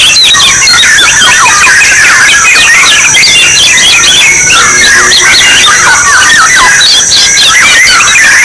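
Orioles calling: a loud, dense, unbroken jumble of short whistled and chattering notes, over a steady high-pitched whine. It is a decoy call recording made to lure orioles.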